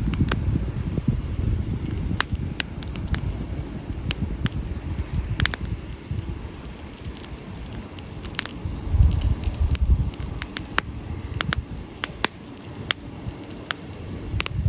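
Wood campfire crackling, with irregular sharp pops and snaps over a low rumble that swells about two-thirds of the way through.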